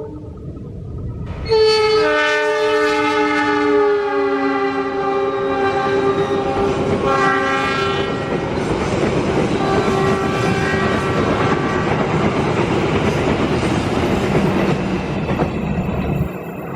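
Train horn sounding a long, shrill multi-tone blast that drops in pitch as the locomotive goes by, then the rumble and clickety-clack of the train running past. The sound cuts off abruptly near the end.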